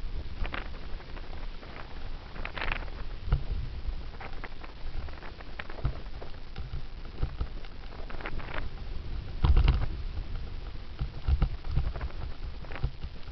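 Wind buffeting a helmet-mounted camera's microphone while a bicycle coasts downhill, with a steady low rumble and heavy thumps, the loudest about nine and a half seconds in. Irregular clicks and rattles from the bike and helmet over the road surface.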